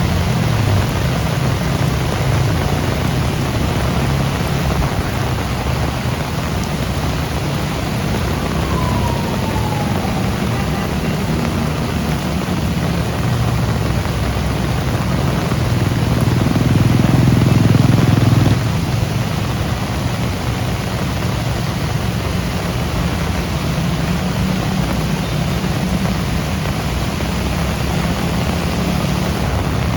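Heavy rain falling steadily, a constant hiss, over a low rumble of road traffic. The rumble swells about two-thirds of the way in, then drops away suddenly, and a short falling whine sounds about a third of the way in.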